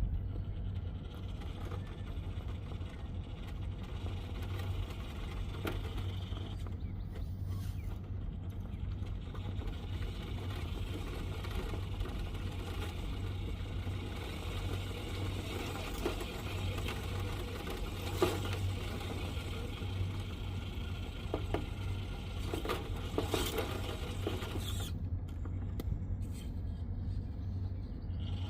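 Scale RC rock crawler's small electric motor and gear drivetrain whirring as it crawls over rock, with scattered clicks and knocks of the truck on stone, the sharpest about 18 seconds in.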